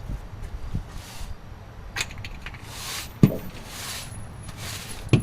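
Several short hissing bursts, each about half a second, with a few sharp metallic clinks and knocks in between, the loudest a bit past three seconds in.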